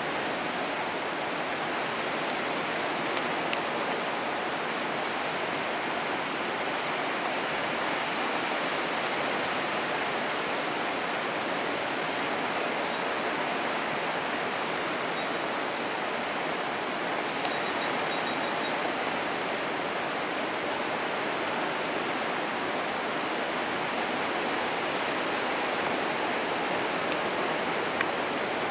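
Steady, even rushing of surf washing on the beach, with no rise and fall of single breaking waves.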